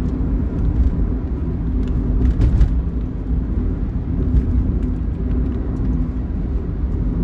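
Steady low rumble of a vehicle driving on the road, with an even engine hum throughout.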